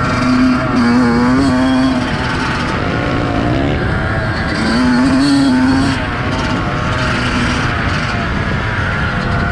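Motocross bike engine running hard on a trail, its pitch rising and falling over and over with throttle and gear changes, loudest about a second in and again around five seconds.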